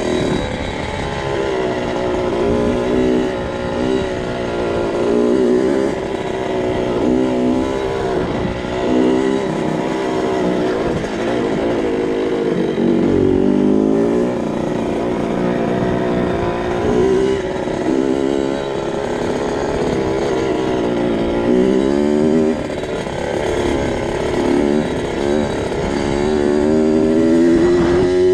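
A 2002 Kawasaki KX65's small two-stroke single-cylinder engine being ridden, its revs climbing and dropping over and over as the throttle is opened and closed.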